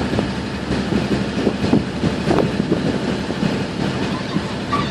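Small passenger ferry's engine running steadily under way, with irregular knocks through the hull.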